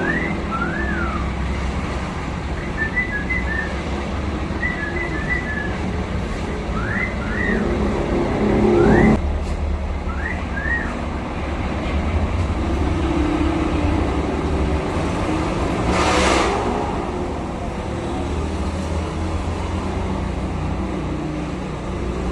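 A pet myna giving short whistled calls, quick rising and falling sweeps and chirps, through the first half, over a steady rumble of engine or traffic noise that swells and cuts off about nine seconds in. A brief hissing rush comes about two-thirds of the way through.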